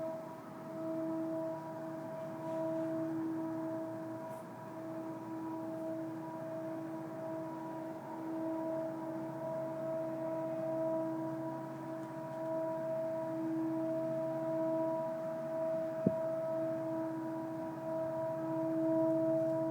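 An unexplained steady droning hum of several held tones, swelling and fading slowly, with a single sharp click about 16 seconds in.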